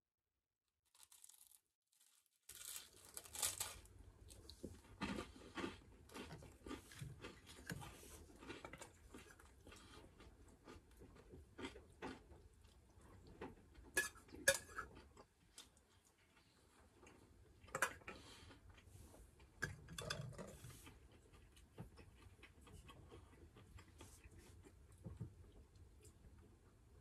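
Quiet chewing and crunching of baguette with cream cheese, starting a couple of seconds in. A few light clicks of a metal spoon against a stainless steel cup come around the middle.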